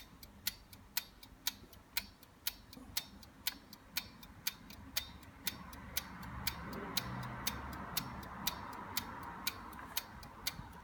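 8-day English marine chronometer ticking steadily, two sharp ticks a second from its half-second beat. A steady hum comes up underneath about halfway through.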